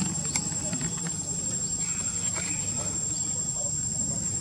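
Insects droning at one steady high pitch, with a sharp click about half a second in.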